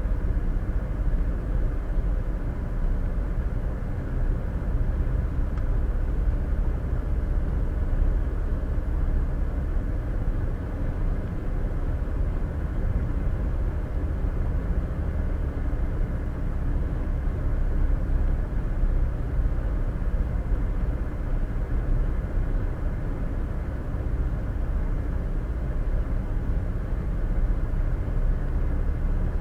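Steady road and engine noise of a car cruising at highway speed, heard inside the cabin through a dash cam's microphone: a low, even rumble with no breaks.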